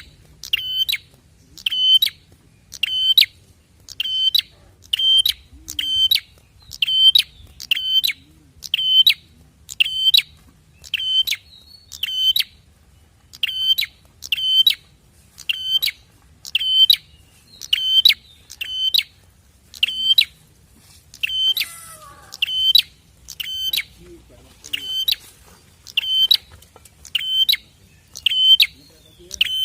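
Prenjak (bar-winged prinia) calling: one sharp, high chirp repeated steadily about once a second. About two-thirds of the way through, a fainter, lower call with a falling pitch comes in between the chirps.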